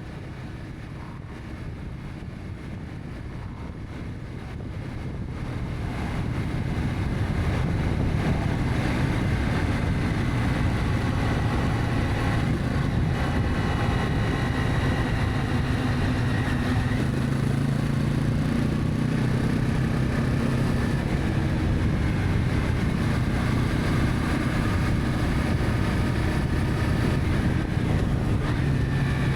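Honda CB300F motorcycle's single-cylinder engine running under way, with road and wind noise; the sound grows louder about five seconds in and then holds steady.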